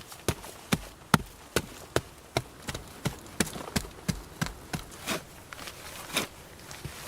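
Repeated sharp knocks, about two to three a second, some louder than others.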